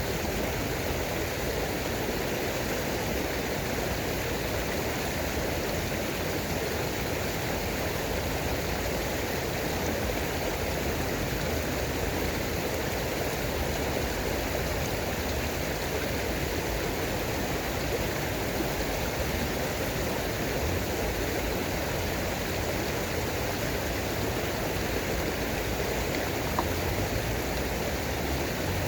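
Running water from a stream or small waterfall, a steady even rush with no change.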